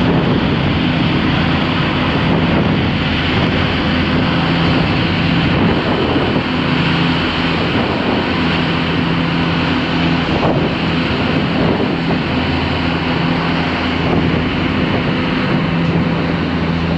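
Vehicle engine running at a steady speed with a constant low hum, under heavy wind noise on the microphone.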